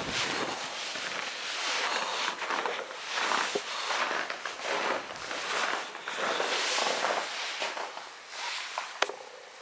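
Footsteps crunching through snow, about two steps a second, with a single sharp click near the end.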